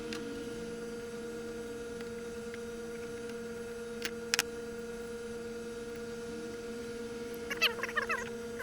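A steady electrical-sounding hum, with two sharp clicks about halfway through and a short flurry of chirp-like crackles near the end.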